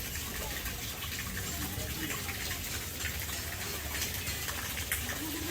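Steady rushing water, with faint voices in the background.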